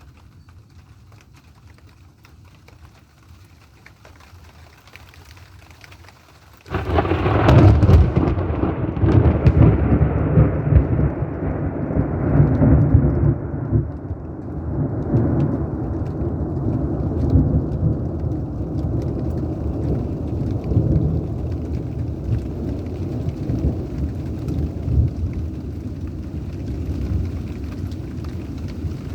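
Thunder: a sudden loud crack about seven seconds in, then a long low rumble that slowly fades, with rain falling throughout.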